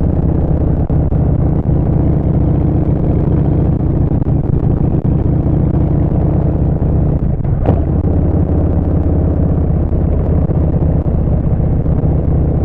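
Harley-Davidson Street Bob's Milwaukee-Eight 114 V-twin through a Vance & Hines Short Shots full exhaust, running steadily at cruising speed. A short sharp noise comes a little past halfway, as the engine note briefly dips.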